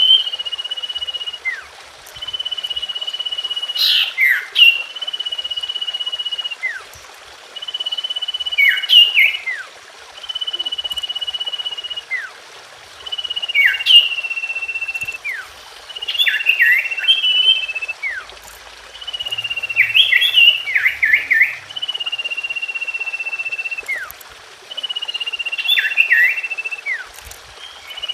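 Common iora (cipoh) song: a long, level, drawn-out whistle, each held for a second or two, repeated every two to three seconds. Short, quick falling notes come before or after each whistle, with a busier burst of them about two-thirds of the way in.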